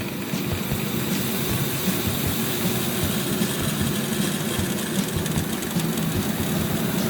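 A vehicle engine running steadily, with a dense low rumble and a hiss above it.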